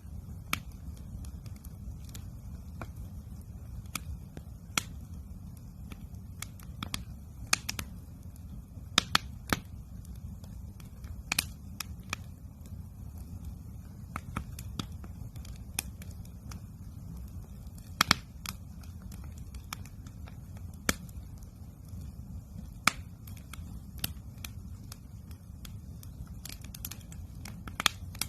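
Campfire crackling: irregular sharp snaps and pops, a few a second, some much louder than others, over a steady low rumble.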